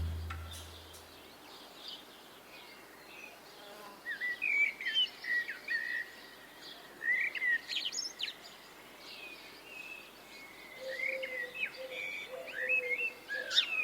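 Small birds chirping in clusters of short, quickly gliding calls, starting about four seconds in and recurring several times.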